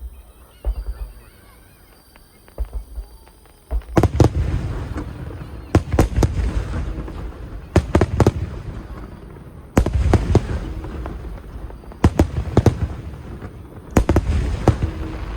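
Aerial fireworks shells bursting: small pops at first, then from about four seconds in a run of loud booms roughly every two seconds, some doubled, each followed by a long rumbling echo.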